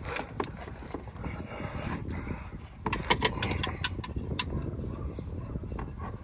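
Hand wrench clinking against the oil pan drain bolt: a cluster of sharp metallic clicks about three seconds in, over a low steady rumble.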